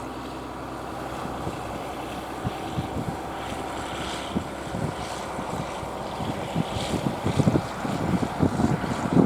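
A fishing boat's engine running steadily, with wind buffeting the microphone in gusts that grow stronger near the end.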